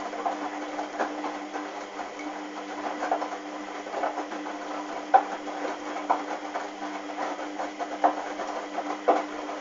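Hoover washing machine running a wash, its motor humming steadily with short knocks about once a second as the drum turns the wet towels.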